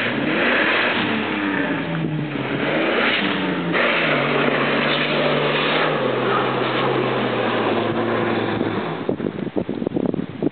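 Jeep Wrangler engine revving hard under load as it claws up a muddy slope, its pitch rising and falling with the throttle. The revs die away about nine seconds in, leaving a crackly rustle.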